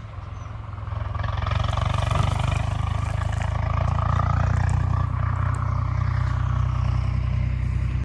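Tractor diesel engine running with a steady low throb and a rushing, clattering noise above it, getting louder over the first two seconds, then holding steady until it cuts off abruptly near the end.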